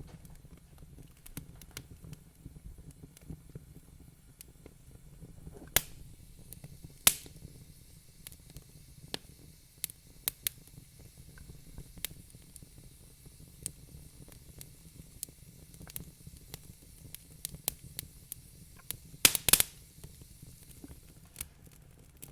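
Wood fire crackling in a fireplace: scattered irregular snaps over a low steady rumble, with two sharp pops around six and seven seconds in and a quick cluster of loud pops near the end.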